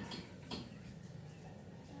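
Faint low background hum with two soft clicks about half a second apart.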